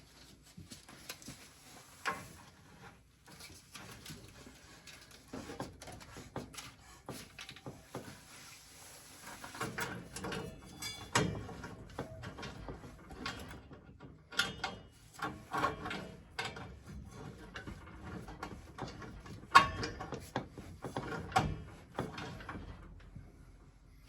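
Irregular metallic clicks, knocks and clatter from handling plumbing tools and fittings, with the loudest knocks near the middle and about three-quarters of the way in.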